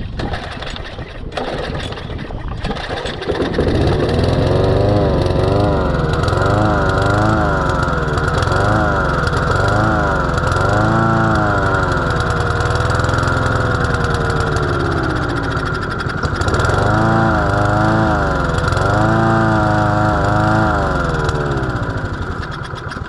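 Walk-behind lawnmower engine pull-started on gas line antifreeze. It catches about three seconds in and runs unevenly, surging up and down in speed, then dies away near the end. It runs on the antifreeze, but poorly, and doesn't like to stay running.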